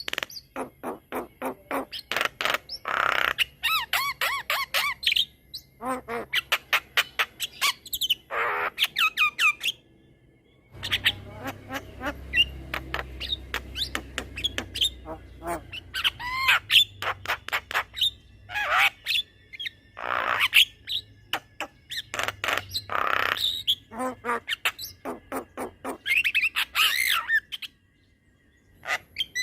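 Javan myna singing a long, varied song: rapid runs of sharp clicking and squawking notes mixed with gliding whistled phrases, broken by brief pauses about ten seconds in and near the end.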